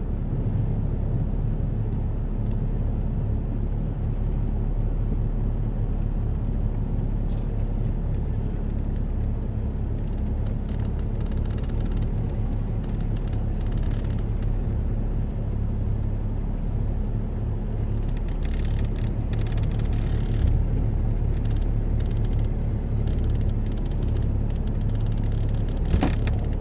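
Jeep engine running at low speed, heard from inside the cab as a steady low drone while the Jeep crawls over a rutted dirt trail, with scattered knocks from the bumps.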